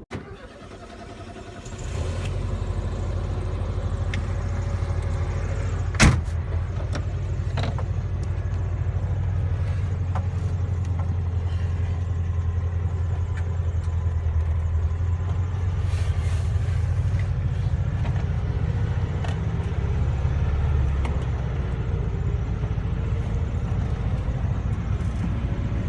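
A car engine running steadily, heard from about two seconds in, with one sharp knock about six seconds in. Around twenty seconds in the engine note drops.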